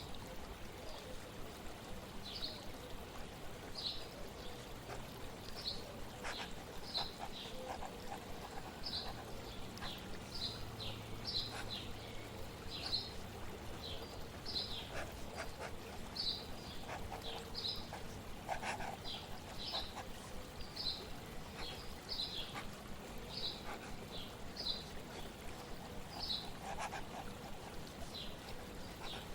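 Small songbird chirping in short high notes repeated about once or twice a second, over a steady trickle of flowing water.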